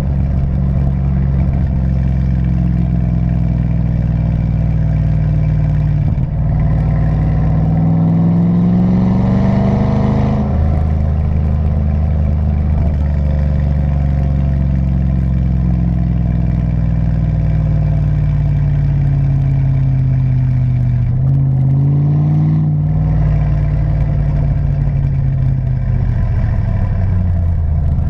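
Stock 4.8-litre V8 of a GMC Sierra through a Black Widow aftermarket exhaust, pulling with the pitch rising steadily for about ten seconds. The pitch then drops suddenly and sinks slowly, with a brief rise and another drop a little past twenty seconds.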